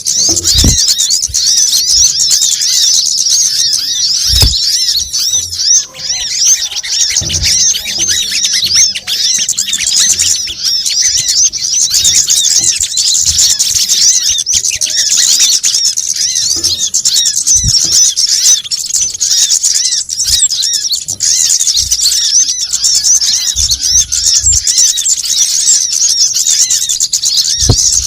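Dense, rapid high-pitched twittering of small birds, many chirps overlapping without a break, played as a bird-lure call recording, with a few short low knocks.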